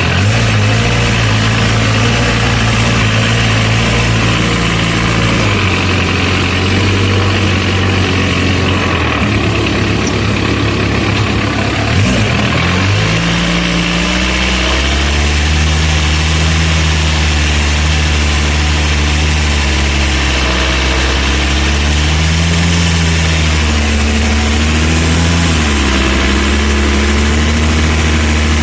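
Homemade tractor's engine running steadily, then about halfway through its speed drops and its pitch starts rising and falling, as the engine labours under the changing load of the plough.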